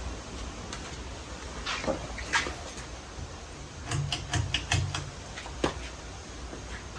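Hampton Bay Cameron II Plus ceiling fan's 188 mm spinner motor running, a steady low hum with air noise. Sharp clicks come around two seconds in, and a denser run of clicks follows between about four and five seconds.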